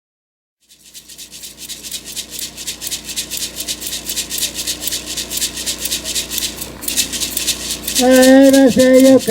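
A hand rattle shaken in a fast, steady rhythm, starting about a second in and growing louder. Near the end a man's voice comes in chanting a Comcaac (Seri) power song over the rattle, in long held notes.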